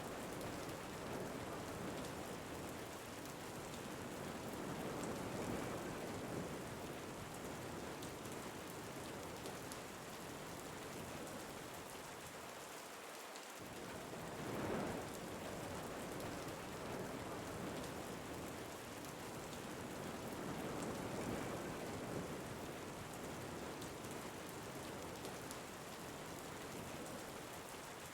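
Ambient recording of steady rain falling, with wind rising and falling in slow gusts every several seconds.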